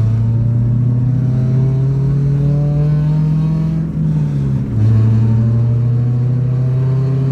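1994 Acura Integra's four-cylinder engine accelerating hard, its pitch climbing, dropping with a gear change about four seconds in, then climbing again.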